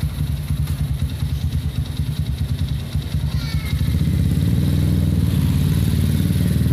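Honda Megapro motorcycle's single-cylinder engine, bored up with a Herex 250cc kit and running through a PDK racing exhaust. It idles with a choppy, pulsing exhaust note, then about four seconds in the revs rise and hold higher and louder.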